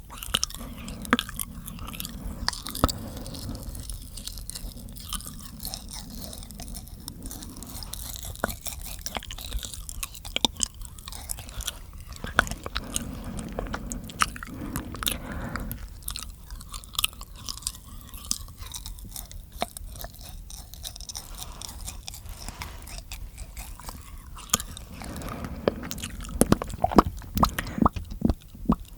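Close-miked ASMR mouth sounds: an irregular, near-continuous stream of wet clicks, pops and smacks, with chewing-like movement of the mouth.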